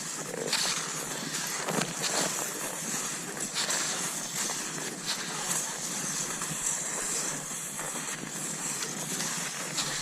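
Cross-country skis sliding over snow: a steady hiss with a sharper crunch every second or two.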